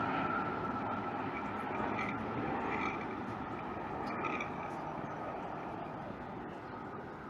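Jet aircraft engine noise fading steadily as the plane moves away, a steady rush with a faint high whine.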